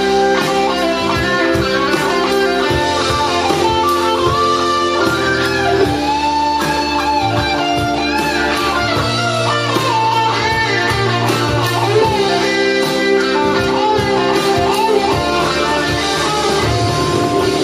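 Live blues band playing, with an electric guitar taking a lead line of bent, gliding notes over steady sustained chords and bass.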